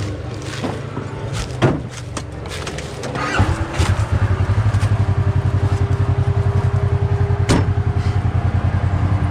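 A few sharp clicks and knocks over a low engine hum. About three and a half seconds in, the side-by-side's engine rises to a louder, steady, pulsing rumble.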